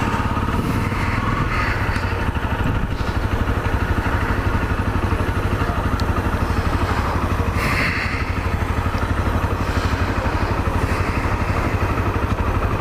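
Honda CRF250L's single-cylinder four-stroke engine running steadily as the dual-sport motorcycle cruises, its firing pulses even and unchanging.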